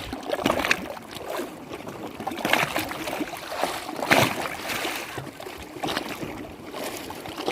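Lake water lapping and splashing in small irregular slaps, the strongest about four seconds in.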